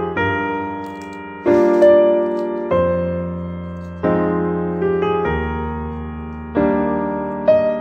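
Background piano music: slow chords and melody notes, each struck and left to fade, a new one about every second and a half.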